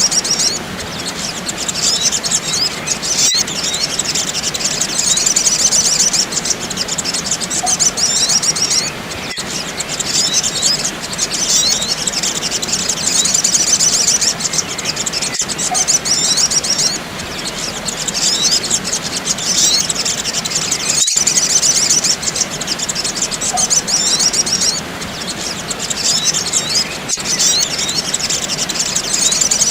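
Sogok ontong (sogon) bird-lure recording: dense, fast, high-pitched chirping from several birds, with brief dips in the calling every few seconds.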